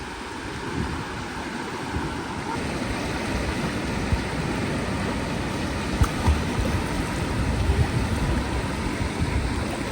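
Surf washing over a shallow reef and through tide pools, a steady rushing of water with a few low bumps in the middle.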